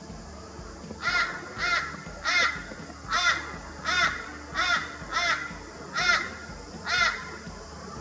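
A large bird calling in an even series of nine short calls, about one every 0.7 seconds, starting about a second in; each call rises and falls in pitch.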